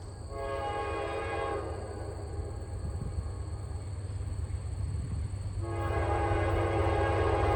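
Norfolk Southern diesel locomotive's air horn sounding: a short blast about half a second in, then a longer blast starting near the end, over a steady low rumble.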